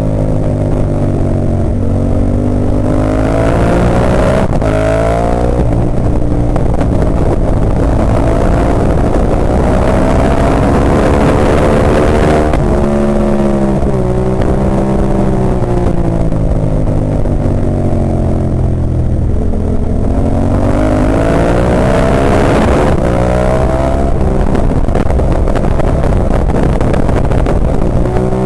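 Ducati 998's L-twin engine under race load, its note climbing through the revs and then dropping away several times as the bike accelerates, shifts and slows for corners, with sudden falls in pitch about five seconds in, about halfway through, and again near the end.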